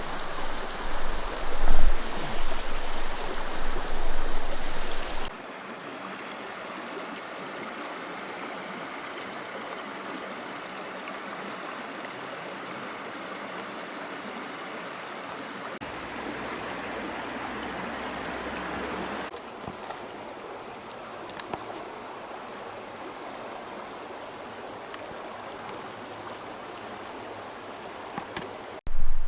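Rushing water of a mountain stream, a steady wash of noise that changes abruptly several times. It is louder, with a low rumble, for the first five seconds.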